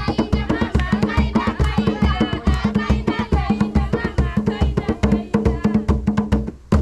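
Live drumming with singing, a fast steady drumbeat under voices, that stops abruptly on a final drum stroke near the end.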